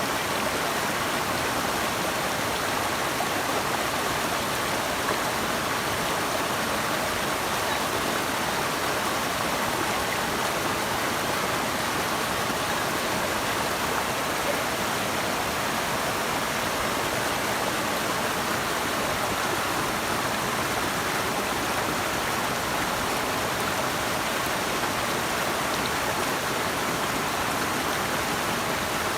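A steady, even rush of flowing water with no distinct splashes or breaks.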